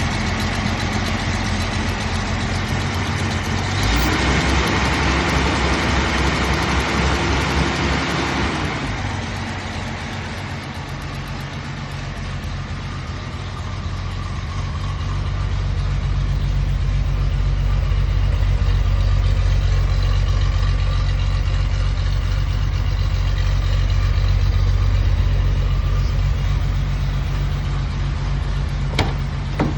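1972 Datsun 240Z's straight-six engine idling as it warms up from a cold start, run without the choke. About four seconds in, the revs rise and hold for some four seconds before dropping back to idle. A sharp click near the end.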